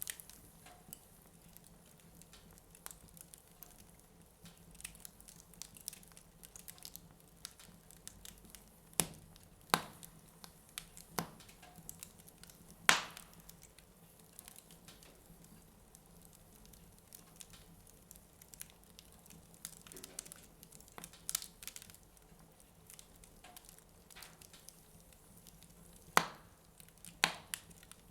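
Wood fire in a fireplace crackling, with scattered sharp pops of burning wood, several louder ones in the middle and two near the end.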